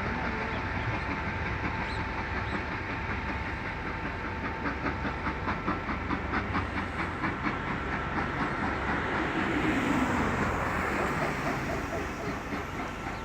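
Historic steam train passing over a level crossing, its wheels clicking in an even rhythm over the rail joints and its noise at its loudest about ten seconds in. A steady high tone sounds through the first half.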